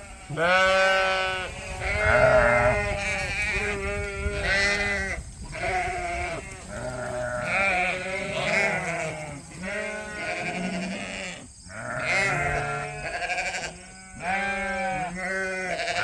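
A flock of ewes bleating, many calls overlapping one another without a break.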